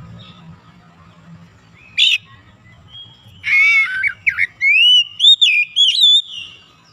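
Oriental magpie-robin (kacer) singing: a short sharp note about two seconds in, then a run of loud whistled phrases sliding up and down for about three seconds.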